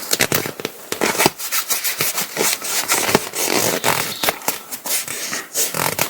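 Paraglider ripstop nylon fabric and repair patch being handled, rustling and crinkling with many small irregular crackles and rubs as a patch is smoothed onto a curved part of the wing.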